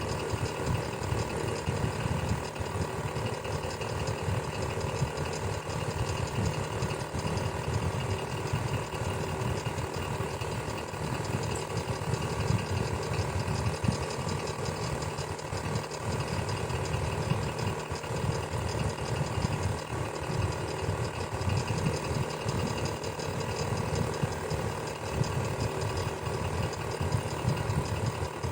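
Electric fan running steadily: a constant low motor hum with a fine, rapid flutter.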